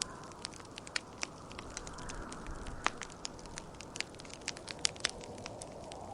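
Wood fire crackling in a fireplace, with irregular sharp pops and snaps over a steady rush of wind that swells and eases.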